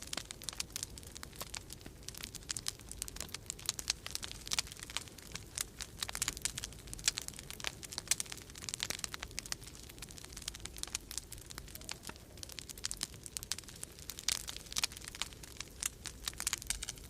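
Wood fire in a fireplace crackling in irregular flurries of sharp pops and snaps, over a steady low rumble of storm wind.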